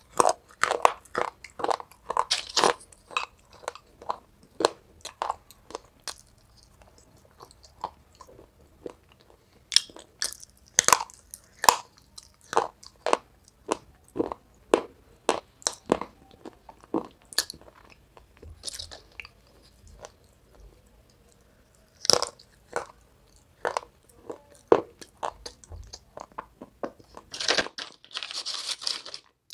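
A person biting and chewing brittle pieces of dry baked clay, with sharp, irregular crunches and a pause of a couple of seconds past the middle. Near the end there is a short rustling scrape.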